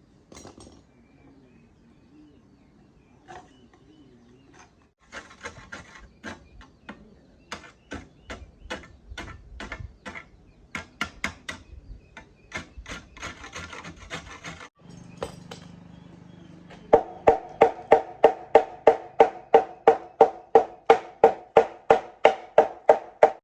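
Hammer blows on metal: irregular knocks at first, then from about two-thirds of the way in a steady run of loud, ringing strikes, about three a second.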